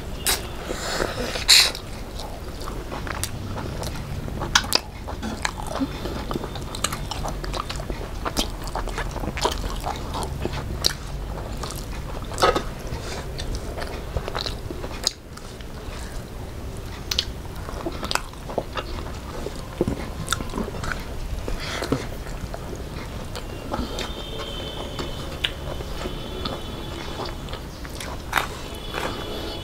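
Close-miked eating: chewing and biting with wet mouth clicks and smacks, the loudest about a second and a half in, as rice, fried fish and chicken are eaten by hand.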